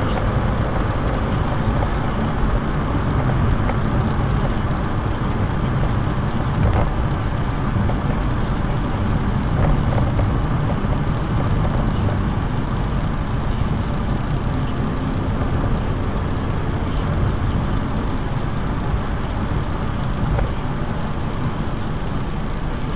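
Car driving: steady road and engine noise with no sudden impact.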